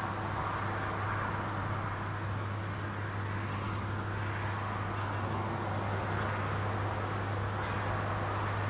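Rice combine harvester running steadily, its engine a constant low drone under a hiss of machinery.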